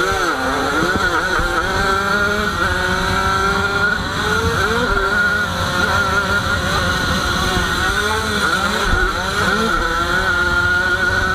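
Small two-stroke Jawa 50 race motorcycle engine, heard up close from the rider, revving hard and dropping back again and again as it is ridden through the corners and gears of a motocross track.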